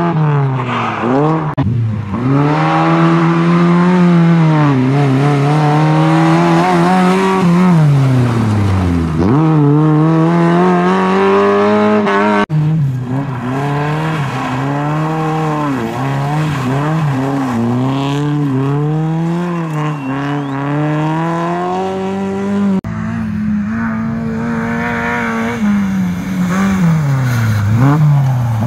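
Lada 2105 rally car's four-cylinder engine revving hard on a stage, its pitch climbing through each gear and dropping sharply on lifts and downshifts. The sound breaks off abruptly twice where separate passes are cut together.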